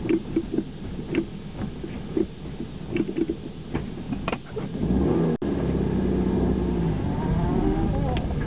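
Vehicle engine running, heard from inside the cab, with scattered light knocks and rattles over the first few seconds. About halfway through, the engine gets louder as it speeds up, its pitch rising and then dropping back.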